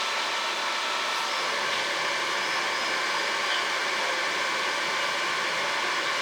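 Stick welding arc burning steadily: an even, continuous hiss.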